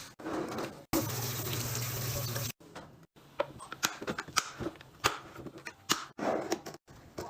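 Clicks and knocks of items being handled, in several short clips. About a second in, a steady rushing noise with a low hum runs for about a second and a half.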